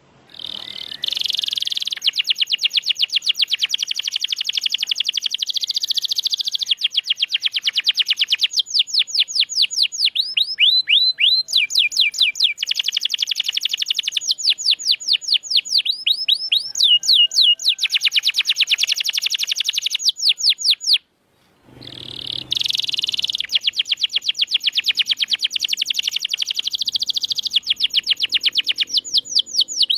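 Domestic canary in full song, a long stream of fast rolling trills and quickly repeated rising and falling notes. The song breaks off for about a second about two-thirds of the way through, then starts again.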